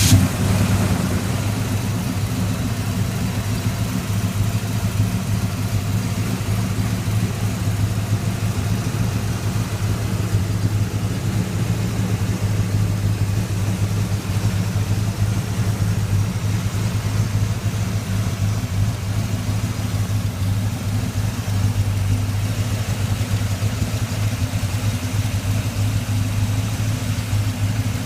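Freshly installed GM Performance 350 cubic-inch, 330-horsepower HO small-block V8 idling steadily through new MagnaFlow dual exhaust, just after starting.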